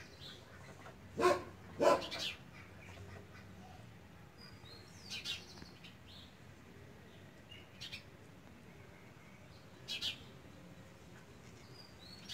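A handful of short bird calls and chirps spread apart, the two loudest coming about a second and two seconds in, with fainter high chirps later on.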